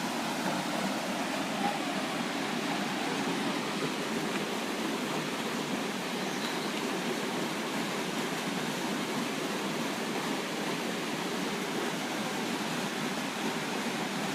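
Steady, unbroken rush of falling and flowing water from Pistyll Rhaeadr waterfall.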